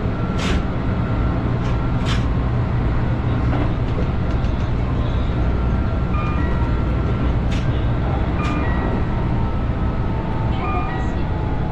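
Keihan 8000 series train running along the line: a steady rumble of wheels on rail, with a few sharp clicks along the way.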